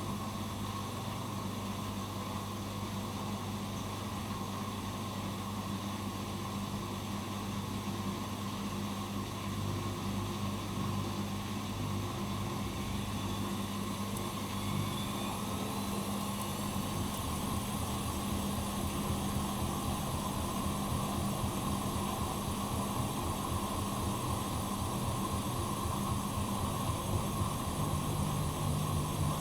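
Bosch Maxx Advantage WFCX2440 slimline washing machine running, its drum motor speeding up about halfway through with a rising whine that then settles into a steadier, higher running sound.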